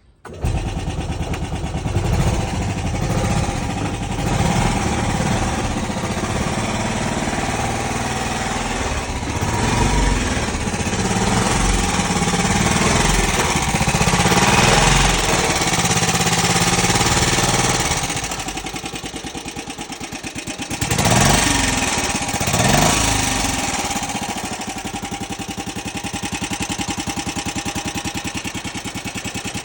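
1963 Trojan bubble car's small single-cylinder engine starting from cold, catching at once and running steadily, with two brief blips of the throttle about 21 and 22 seconds in before settling back to a slightly lower idle.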